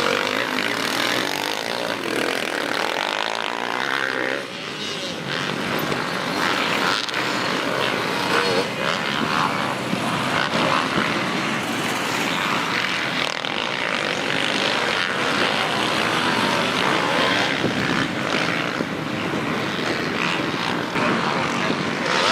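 Motocross dirt bike engines running on the track, the pitch rising and falling as they rev.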